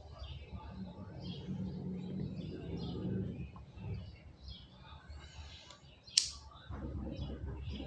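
Small birds chirping repeatedly over a low rumble, with one sharp click about six seconds in.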